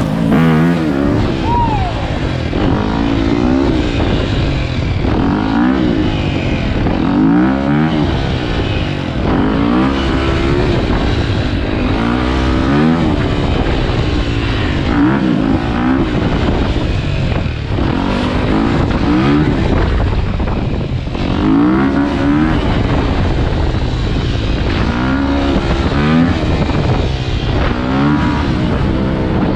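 Dirt bike engines revving hard again and again, the pitch rising and falling about every second and a half.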